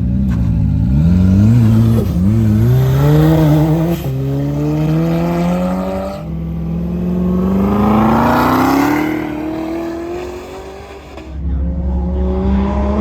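Race car engine accelerating hard under load, its pitch climbing and then dropping sharply at three quick upshifts. It then pulls for a long stretch in a higher gear, eases off about eleven seconds in, and picks up again.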